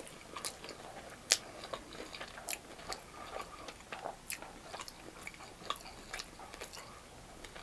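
Close-up chewing of a mouthful of Nashville hot chicken and rice: soft, irregular mouth clicks and small crunches, one or two every half second or so.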